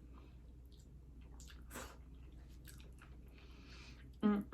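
Close-up chewing and wet mouth sounds of someone eating saucy barbecue pork ribs, with scattered small clicks and smacks. A short voiced sound comes just before the end.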